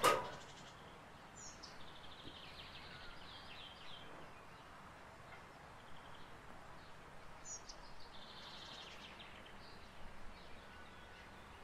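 Birds singing faintly over a steady soft hiss: twice, about six seconds apart, a few high chirps followed by a quick twittering trill. A sharp click sounds at the very start.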